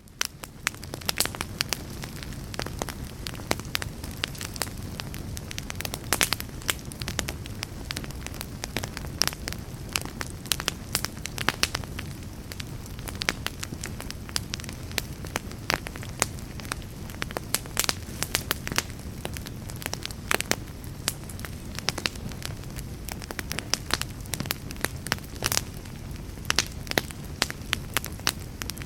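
Logs burning in a fireplace, crackling with frequent irregular sharp pops over a steady low rumble.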